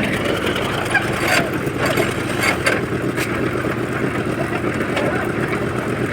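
Concrete mixer machine's engine running steadily, with a few short knocks in the first few seconds.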